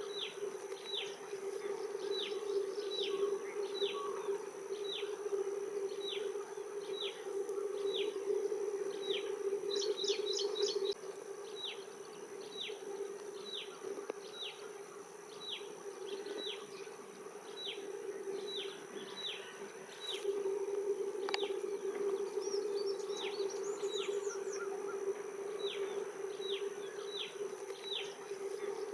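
A bird repeating a short, high, falling call about once a second, with a few quicker chirps in between, over a steady low hum and a constant thin high tone.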